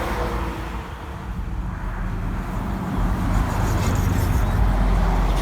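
Wind buffeting the microphone: a rumbling rush that swells and grows louder in the second half.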